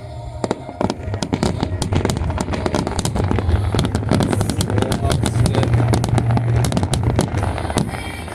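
Fireworks shells bursting in a dense volley, many sharp reports in quick succession, starting about half a second in and thinning out near the end.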